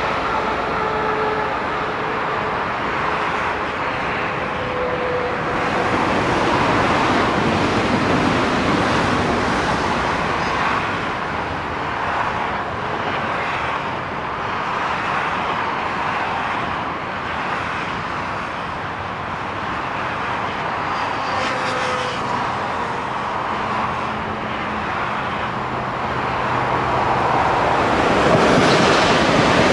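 Electric passenger trains rolling along a multi-track mainline: a steady rush of wheel and track noise, with a faint low hum in the second half. The noise swells near the end as a double-deck train passes close below.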